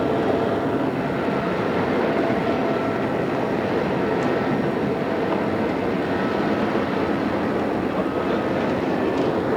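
Odakyu 2600-series electric train running steadily, heard inside the car: an even rumble of wheels and running gear with a faint steady motor whine, on an old cassette-tape recording.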